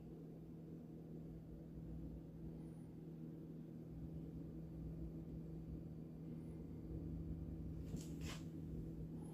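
Steady low hum, with a couple of faint clicks near the end.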